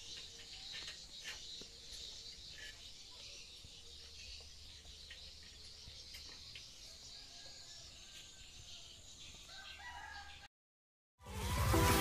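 Faint bird calls over quiet outdoor ambience. About ten and a half seconds in the sound cuts out completely, and a moment later loud music with a beat comes in.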